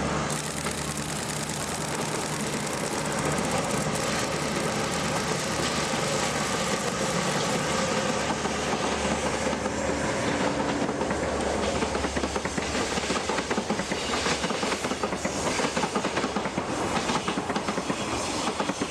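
DD51 diesel-hydraulic locomotive hauling a freight train past, its engine drone steady at first and giving way, about two-thirds of the way in, to freight wagons clattering rhythmically over the rail joints.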